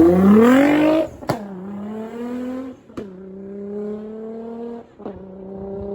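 A car engine revving hard and accelerating away, shifting up through the gears: a steep climb in pitch, then a sharp pop and drop in pitch about a second in, and two more shifts about two seconds apart, each followed by a steadier, slowly rising engine note that grows fainter.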